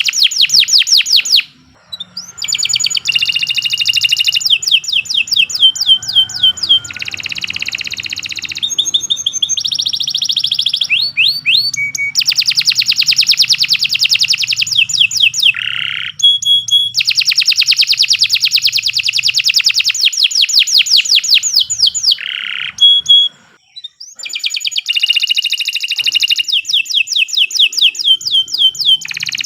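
Domestic canary singing a long, continuous song of fast repeated trills and rolls, phrase after phrase, broken only by two short pauses, about a second and a half in and near the end.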